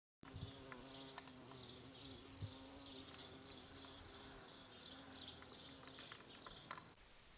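Faint garden ambience: a small bird repeats short high chirps about three times a second, over a low steady buzz and a few light clicks. The sound gives way to a faint hiss near the end.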